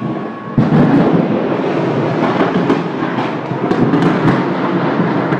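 A gas station explosion: a sudden blast about half a second in, followed by a sustained rumble with dense crackling from the burning gas.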